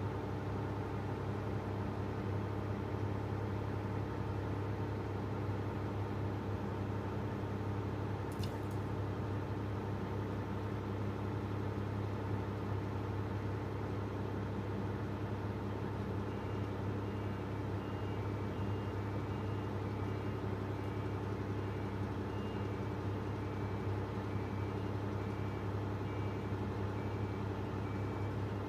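Komatsu PC350LC hydraulic excavator's diesel engine running at a steady speed. There is a single sharp click about eight seconds in, and a little past halfway a repeating two-tone electronic beep like a reversing alarm starts and keeps going.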